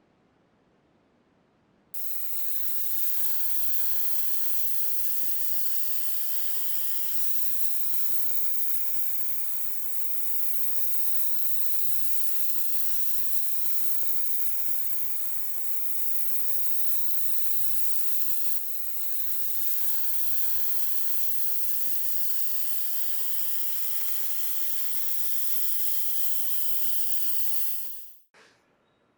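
Steady hiss of a pressurized spray, cutting in about two seconds in, dipping for an instant a little past the middle, and cutting off just before the end.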